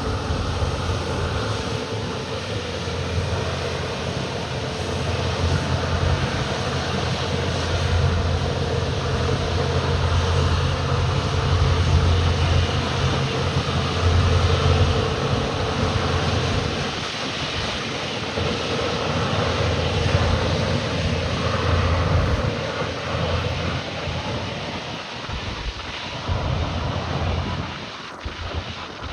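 Jet airliner's engines running loud and steady as it passes close by, a deep hum under a broad rush of noise that swells to its loudest about halfway through and then fades away.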